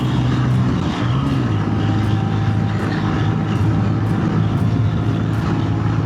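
Lightweight motorcycle's engine running steadily at highway speed, shifted up from fifth into sixth gear about a second and a half in, after which the engine note settles lower.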